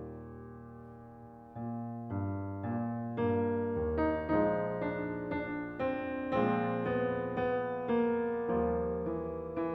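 Solo piano music, slow and gentle: a held chord fades away, then about a second and a half in new notes and chords are struck roughly every half second, each ringing on as it decays.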